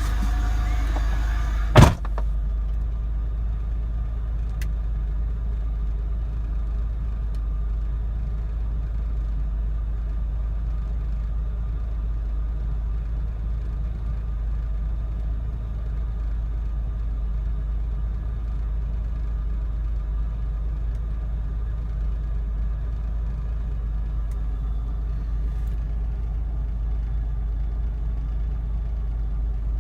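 The supercharged 3.8-litre V6 of a 2000 Pontiac Bonneville SSEi running with a steady low rumble. The owner suspects rod knock, which he mainly hears under load. A single sharp click sounds about two seconds in.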